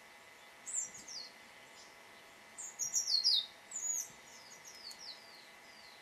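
Small songbird calling: short phrases of high, quickly falling chirps, the loudest cluster about three seconds in, with fainter ones trailing off toward the end.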